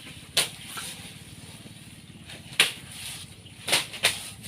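An elephant flinging wet mud over its body: four short, sharp splats, one near the start and three in the last two seconds.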